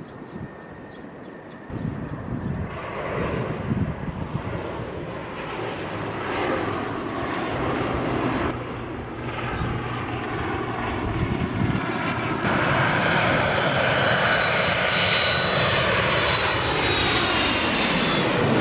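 Airliner on landing approach passing low overhead. Its engine noise builds steadily and is loudest near the end, with a high whine that slides down slightly in pitch as it comes over.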